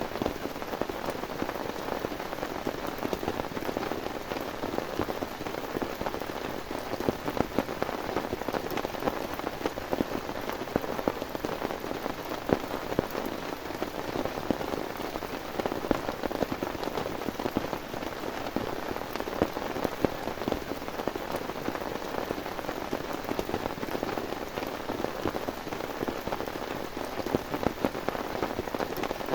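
Heavy rain falling steadily, with a dense, even patter of individual drops striking a nearby surface.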